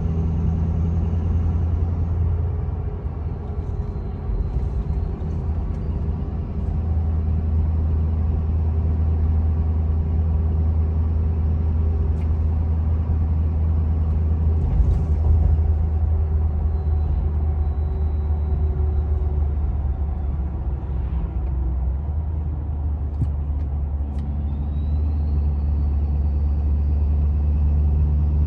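Cab drone of a Ford 6.7 Powerstroke V8 turbodiesel with a 4-inch exhaust and no muffler or resonator, heard from inside the cab while cruising at about 60 mph, mixed with all-terrain tires humming on the road. A faint high whistle falls in pitch twice and rises once near the end.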